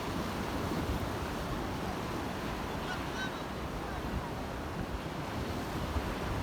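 Black Sea waves washing onto the shore, a steady surf wash with wind buffeting the microphone. A few faint short high calls come through about three seconds in.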